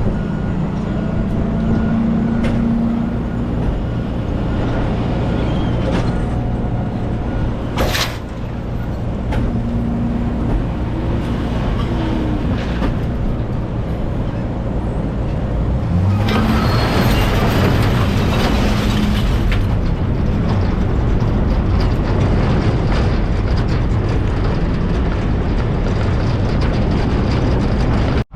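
Truck engine running steadily while driving. There is a sharp click about eight seconds in, and about two-thirds through the engine note rises as the road and wind noise grows louder for a few seconds.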